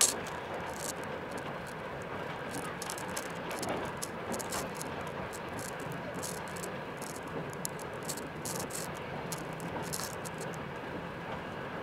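Passenger train running, heard from inside the carriage: a steady rumble and hiss with frequent irregular clicks and rattles.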